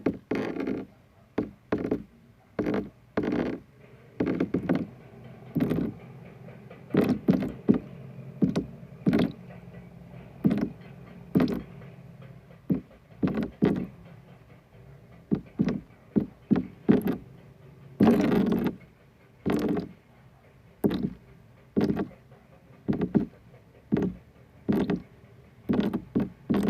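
A string of short, irregular taps and knocks, about one or two a second, with one longer sound about two-thirds of the way through.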